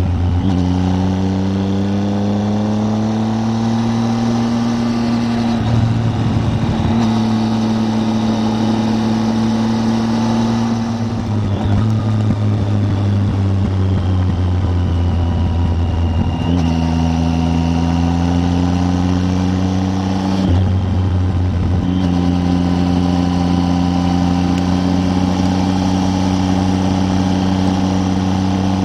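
Triumph Tiger 800's three-cylinder engine pulling hard, its note climbing through the gears with brief breaks at each gear change. It settles to a nearly steady cruise for the last several seconds.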